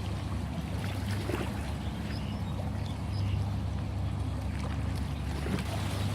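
Ocean waves washing steadily, swelling slightly about three seconds in, over a constant low rumble.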